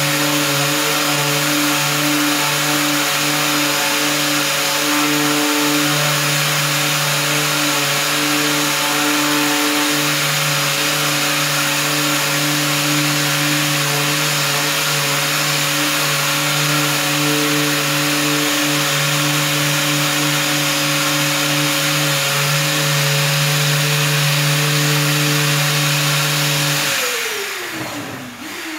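Power sander running at a steady speed while sanding a plastic bumper cover, then switched off near the end and winding down with falling pitch.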